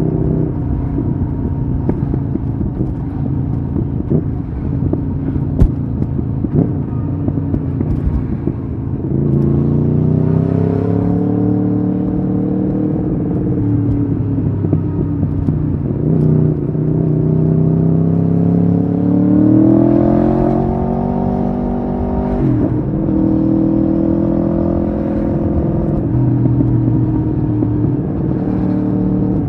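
Aprilia Tuono V4R's V4 engine running under way, its pitch climbing twice as it accelerates. Near the two-thirds mark the revs drop sharply, then the engine runs on steady.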